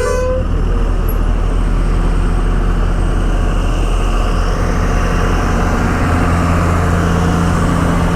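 Motorcycle engine running steadily at road speed, mixed with road and wind noise.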